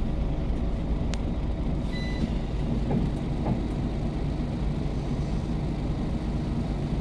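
Scania OmniCity single-deck bus engine running with a steady low drone. A sharp click comes about a second in, and a short high beep about two seconds in.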